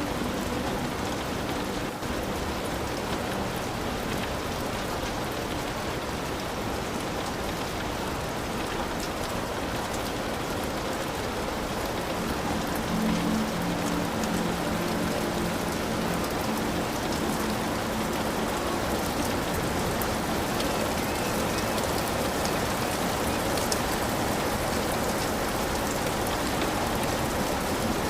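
Heavy rain falling steadily on a hut, a dense even wash of rain noise.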